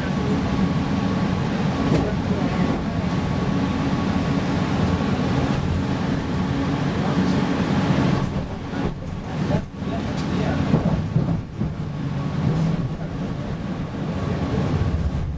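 Cabin noise of a PESA Fokstrot low-floor tram running along the track: a steady rumble of wheels and running gear on the rails, with a faint steady whine above it.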